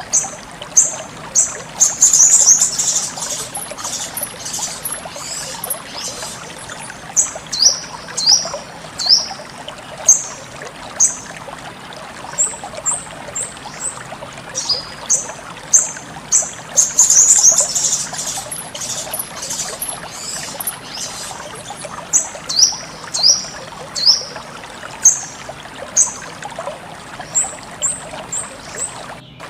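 Sogon (sunbird) calls: sharp, high chirps repeated about once a second, some falling notes, and two dense trilling bursts, over a steady trickle of flowing water.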